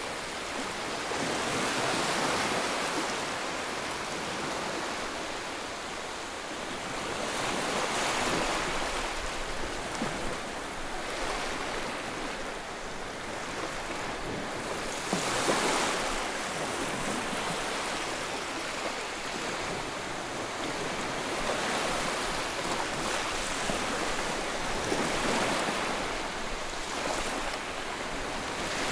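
Ocean waves breaking and washing on a shore, a steady surf hiss that swells with each wave every few seconds.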